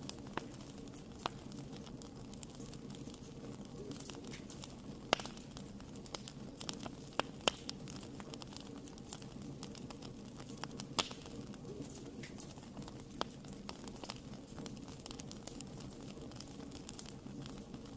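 Wood fire burning in a fireplace, crackling and popping irregularly over a steady low rumble of flames. A few louder pops stand out about 5, 7 and 11 seconds in.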